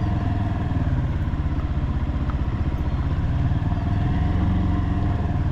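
Motorcycle engine running steadily at low, even revs as the bike rides along.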